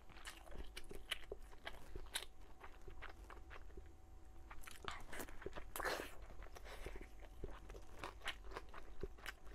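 Close-miked chewing of a glazed pork meatball: many small clicking mouth sounds, with a louder, longer stretch about six seconds in.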